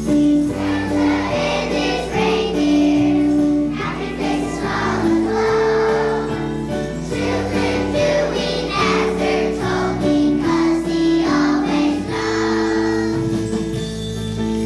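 Children's choir singing a Christmas song over instrumental accompaniment, with jingle bells shaking along.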